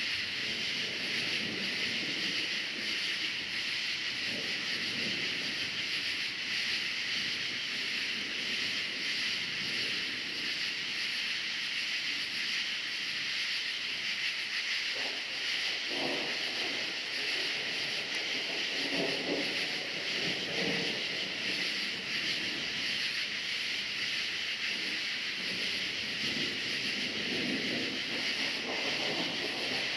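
A chorus of crickets chirping steadily with a dense, even high trill, and faint irregular low swells underneath.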